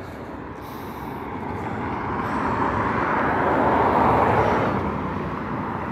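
A road vehicle passing by: its noise builds steadily to a peak about four seconds in, then fades.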